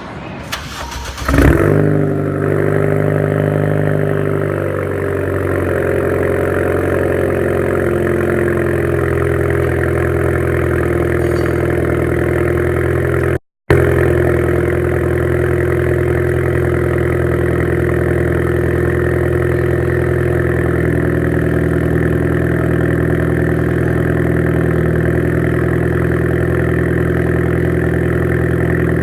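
Ford Fiesta ST engine with a 2.5-inch custom exhaust, with a resonator and no muffler, cranking and firing about a second in with a short rev flare. It then settles over a few seconds into a steady idle. The sound drops out for a moment about halfway through.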